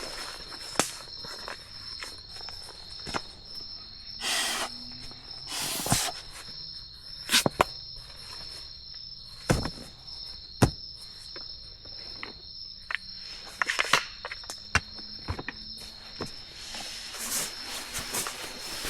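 Steady high-pitched chirring of rainforest insects, two even tones holding throughout, with scattered sharp clicks, knocks and brief rustles of someone moving and handling material.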